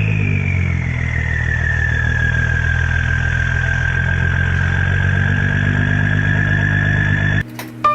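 Twin-turbocharged 3.7L V6 Ford Mustang engine idling just after starting, with a high whine that drops in pitch over the first few seconds and then holds steady. The engine sound cuts off abruptly near the end.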